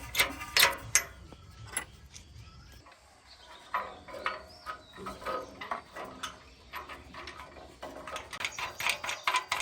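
Hand-tool work on metal machine parts: irregular clicks and taps at first, then a quieter stretch of scraping, then quick clicks again near the end.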